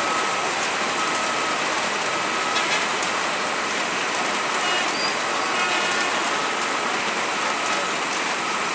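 Steady heavy rain falling, with a faint high beep repeating about once a second.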